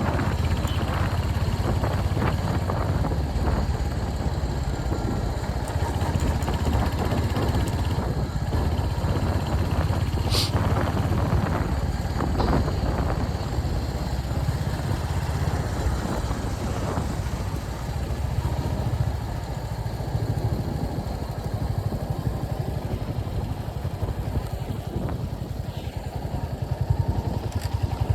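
Royal Enfield Hunter 350's single-cylinder engine running steadily under way, growing louder near the end as it is opened up.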